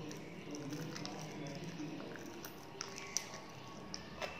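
Mouth-eating sounds of chewing rice and chicken curry, then fingers working rice on a steel plate, with a few short sharp clicks from about three seconds in.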